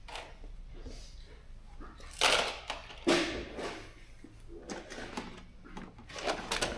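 Bolts and fasteners being handled while a kit is packed: irregular clattering knocks and rustles, the loudest a little after two seconds and about three seconds in.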